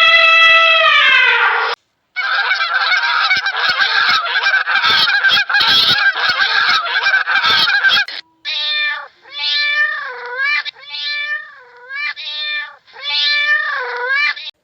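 Animal calls in three separately edited clips: one long call that falls in pitch, then several seconds of many calls at once, then a string of about six separate calls that dip and rise in pitch.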